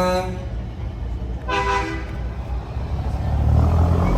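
Truck air horn: a long blast ends just after the start, and a second short blast sounds about a second and a half in. Near the end a low truck engine rumble builds and grows louder.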